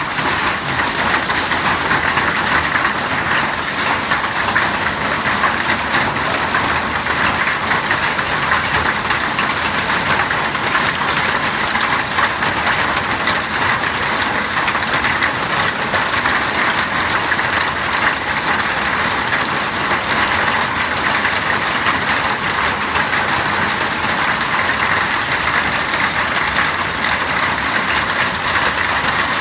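Hailstorm: hail and heavy rain pelting down in a dense, steady clatter that never lets up.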